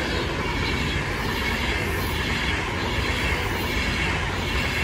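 Avanti West Coast Class 390 Pendolino electric train passing close by at speed, a steady rush and rumble of wheels on rail.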